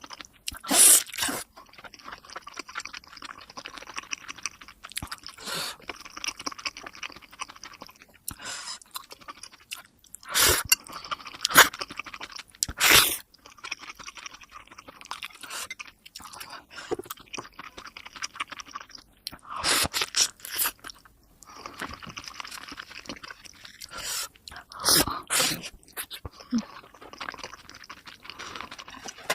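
Close-miked chewing of momo dumplings, played at double speed: a run of wet mouth sounds broken by sharp clicks at irregular moments.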